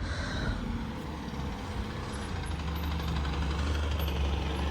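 Diesel bus engine running with a low steady drone, growing slightly stronger about halfway through.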